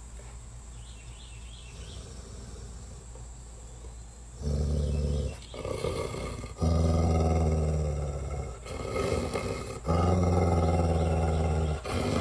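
An animal's deep, drawn-out growling, starting about four and a half seconds in and coming as several long growls with short breaks between them.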